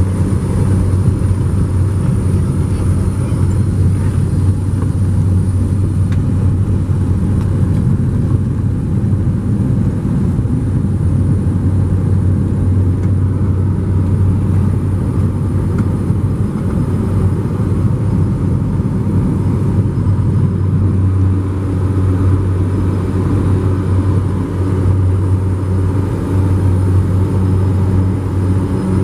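Airplane engine running steadily, a loud, even, low drone with no marked rise or fall.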